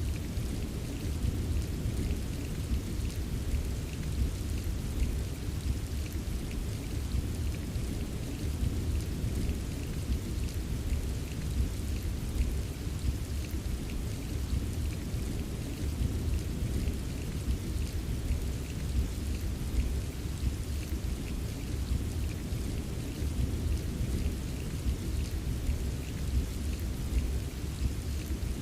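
Steady rain from a rain-sounds ambience track: an even wash with a deep, steady rumble underneath and light, scattered patter of drops on top.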